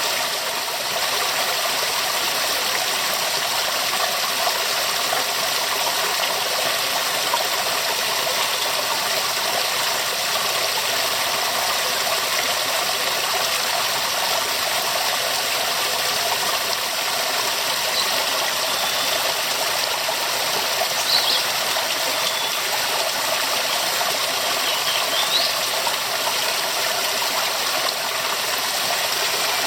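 Waterfall: a steady, even rush of falling water. A few faint short high chirps sound near the middle.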